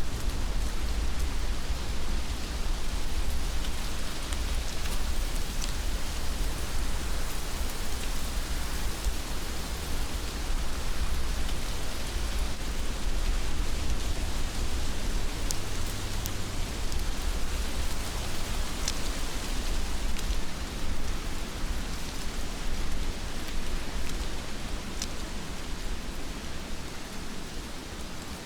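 Heavy rain falling steadily, with a deep low rumble underneath and a few sharp drop clicks. The rain eases slightly near the end.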